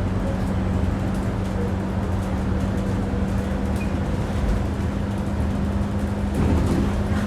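Alexander Dennis Enviro 400 double-decker bus heard from inside while driving: a steady engine drone with a constant whine, the vacuum-cleaner-like 'hoover' sound, over road rumble.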